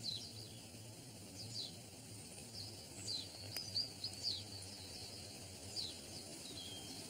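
Birds chirping outdoors, a short falling call every second or so over a steady low background rumble, with one sharp click about halfway through.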